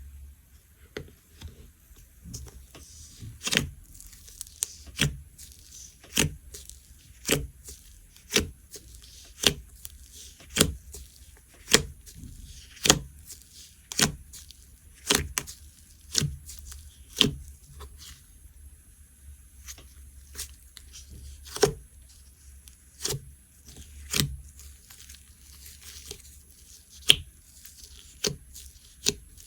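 Cream slime with chips mixed in being squished and pressed by hand, giving sharp pops and snaps about once a second with smaller crackles between.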